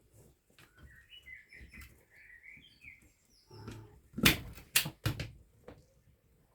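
A small bird chirping in a quick run of short, wavering notes, then three or four sharp clicks and knocks of handling on the workbench a little past the middle.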